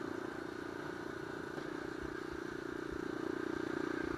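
Single-cylinder trail motorcycle engine running at a steady, low cruising speed while riding, with wind rumble on the microphone.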